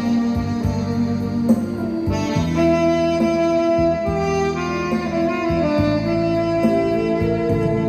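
Tenor saxophone playing a slow ballad melody in long held notes over a steady accompaniment with a bass line.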